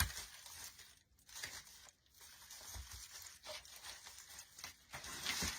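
Artificial pine branches and floral picks rustling and crinkling as they are handled and pushed through the swag, with scattered small clicks and a louder patch of rustling near the end.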